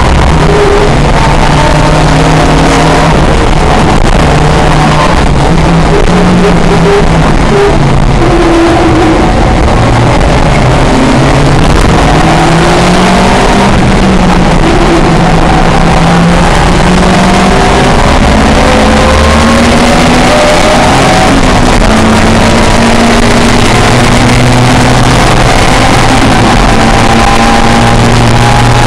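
Historic touring car engine at racing revs, loud throughout, its pitch climbing and dropping again and again as the car is driven hard through gear changes.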